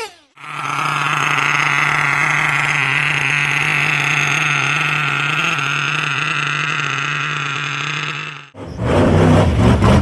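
Small nitro RC car engine held at steady high revs, a constant high-pitched whine, cutting off abruptly near the end, where beat-driven music comes in.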